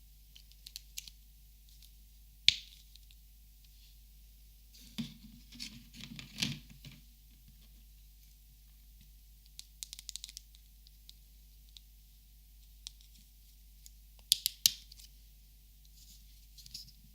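Copic markers being handled and sorted: scattered sharp plastic clicks and light taps. The loudest is a single sharp click about two and a half seconds in. There is a short cluster of knocks around six seconds and a quick run of three sharp clicks about fourteen seconds in.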